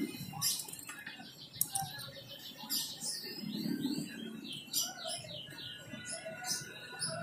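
Small bird chirping and singing in the background, with a run of quick, repeated downward-sliding notes through the middle and scattered short chirps around it.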